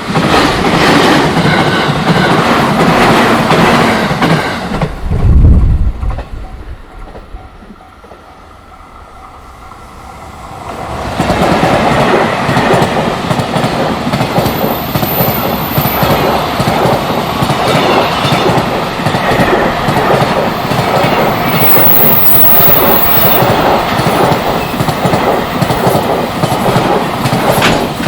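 Freight train running past at close range, its wheels clattering over the rail joints. The noise drops away for several seconds about five seconds in, after a short deep thump, then a long train of wagons passes steadily again to the end.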